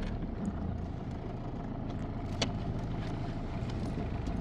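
A motor vehicle running with a steady low rumble, and a single sharp click about halfway through.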